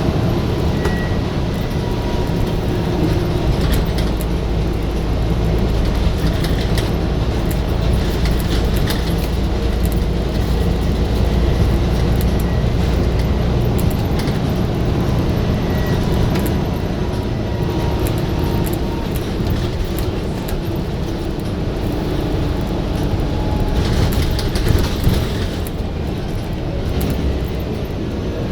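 Scania bus's diesel engine running hard under load: a steady, loud low rumble that eases about halfway through, with a faint whine and scattered rattles and clicks.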